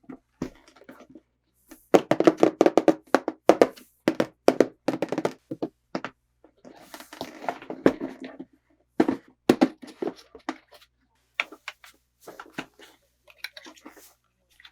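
Hands handling toy pieces and packaging: clusters of rapid taps and knocks, with a stretch of rustling about seven seconds in.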